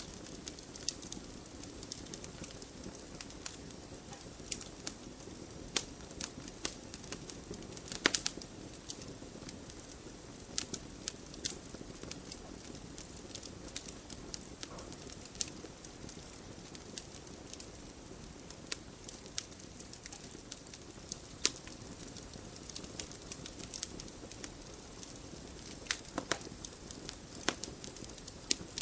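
Wood fire burning in a fireplace: a steady low hiss of the flames with irregular crackles and sharp pops from the burning logs, the loudest pop about eight seconds in.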